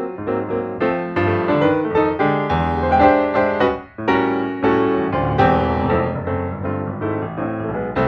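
Background piano music: a steady run of struck notes and chords, with a brief break about halfway through.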